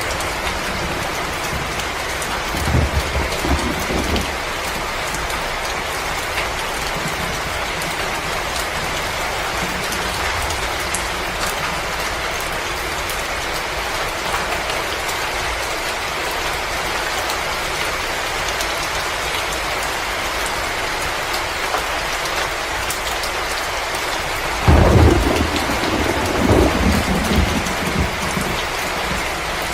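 Storm and fireplace ambience: a steady rain-like hiss with faint crackles, and deep rumbles about three seconds in and again near the end.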